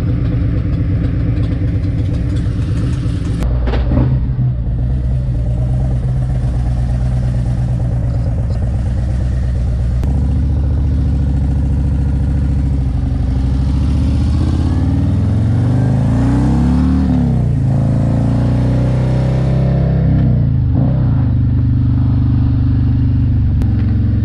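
2024 Harley-Davidson Road Glide's Milwaukee-Eight 117 V-twin running as the motorcycle rides off, its pitch rising under acceleration and dropping at each upshift. A short clatter comes about four seconds in.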